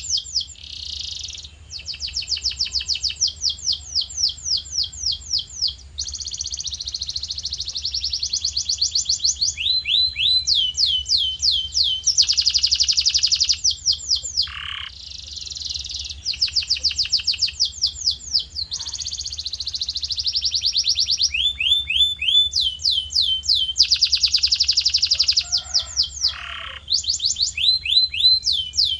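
Male canary singing continuous song: rapid runs of one repeated note, many per second, switching every second or two to a new phrase of rising or falling notes. A faint low hum runs underneath.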